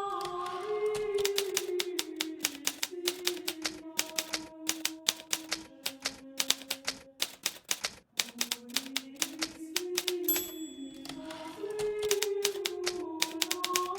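Hermes Baby portable typewriter being typed on at a steady working pace, a dense run of irregular key strikes with a short pause about eight seconds in. Soft background music with a slow melody plays underneath.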